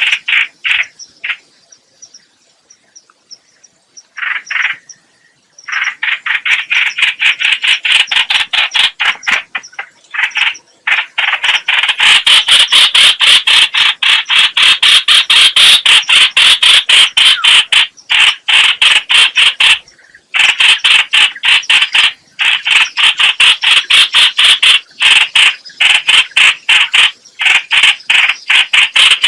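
Trao trảo (hoành hoạch) bird calling: long runs of sharp repeated notes, about five a second. The calling pauses for a few seconds near the start.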